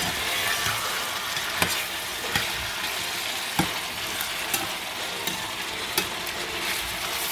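Chopped vegetables, including green beans, sizzling steadily in oil in a pan, with a utensil knocking against the pan about six times as they are stirred.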